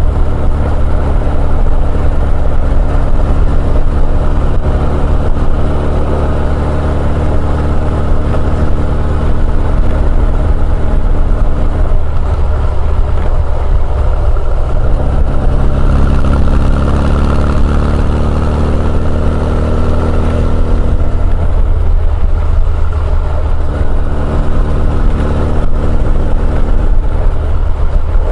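Honda CB1100EX's air-cooled inline-four running on the move through an R's Gear Wyvern Classic aftermarket exhaust. The note is steady, then its pitch shifts up and down with speed changes about halfway through.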